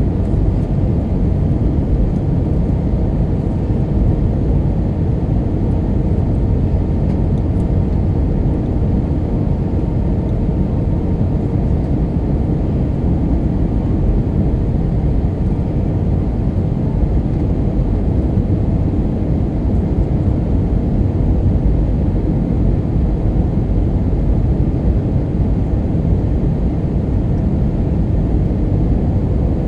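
Steady low rumble of an Airbus A319's IAE V2500 engines and rushing air, heard from inside the passenger cabin on the approach to landing.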